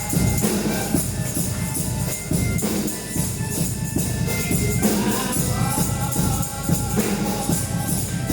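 Gospel praise music with singing over a steady, fast beat of drums and tambourine.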